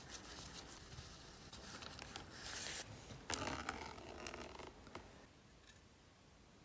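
Scraping and rubbing from hand work on a part: a short stroke a little over two seconds in and a longer one at about three seconds, with a few light clicks, then quieter handling.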